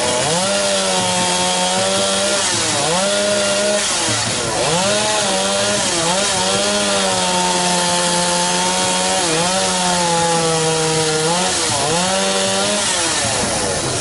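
A chainsaw running at high revs, its pitch dropping and climbing back again and again as the throttle eases off and opens up.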